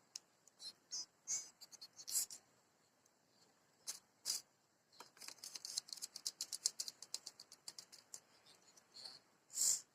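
White-rumped shama giving short, sharp high chips, then a rapid chattering run of about ten notes a second lasting some three seconds, from about halfway through.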